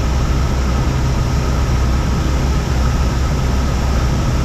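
Cessna 172's piston engine and propeller droning steadily in flight, heard inside the cabin as a constant low hum under a wash of noise.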